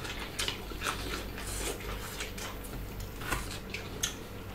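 Close-up sounds of two people chewing food, with irregular wet mouth clicks and lip smacks.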